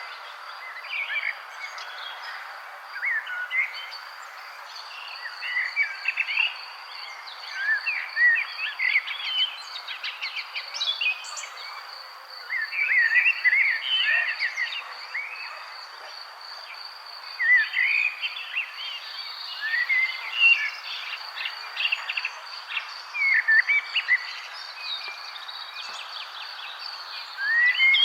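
Several wild birds chirping and warbling in short, overlapping phrases, over a steady, evenly pulsed high trill and a constant background hiss.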